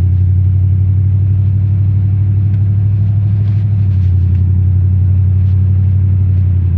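Ford F-150's 5.0-litre (302) V8 running with a steady, loud low drone.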